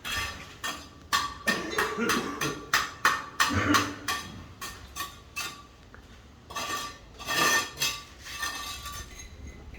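A quick series of sharp clinks and knocks, several a second, thinning out after about five seconds, with another cluster of clinks around seven seconds in.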